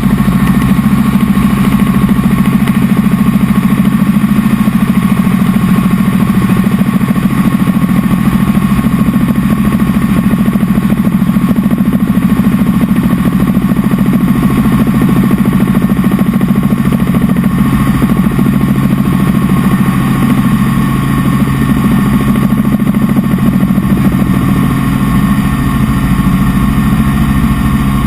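Helicopter in flight: a loud, steady drone of engine and rotor with a constant hum.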